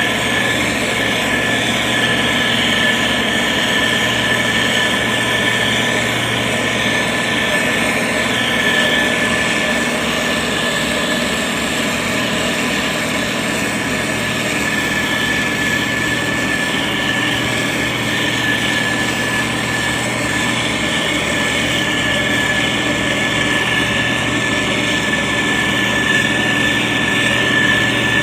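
Motor grader's diesel engine running steadily, with a constant high whine over the engine noise.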